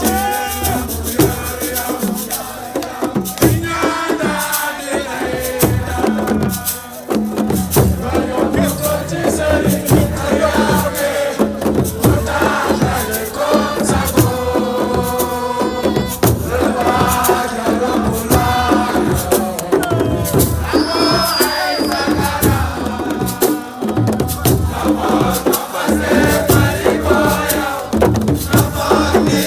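Live celebration music: voices chanting and singing together over steady rhythmic percussion with shaken rattles.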